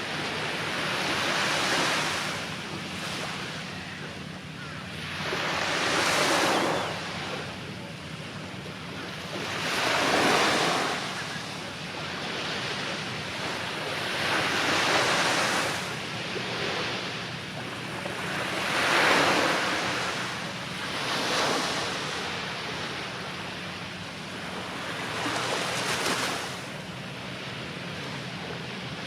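Sea waves breaking and washing up a beach, each surge swelling and fading away every four or five seconds, with wind buffeting the microphone.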